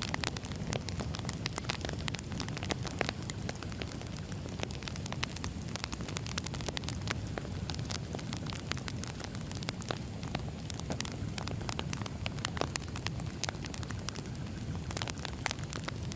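Burning firewood crackling, with frequent sharp pops and snaps over a steady low rumble of the flames.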